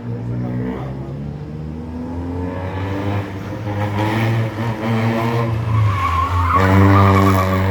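Rally car engine revving hard while the car slides, with tyres squealing. The engine note shifts up and down, and about two-thirds of the way through it gets louder, with a sharper screech from the tyres.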